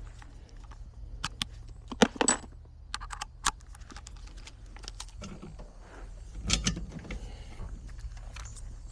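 Scattered metallic clicks, clinks and knocks of hand tools and metal parts being handled during HVAC installation work, loudest about two seconds in and again about six and a half seconds in, over a steady low hum.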